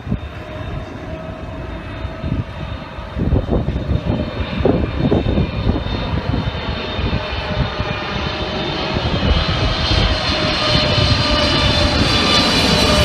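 A large engine running with a low rumble and a high whine, growing louder toward the end.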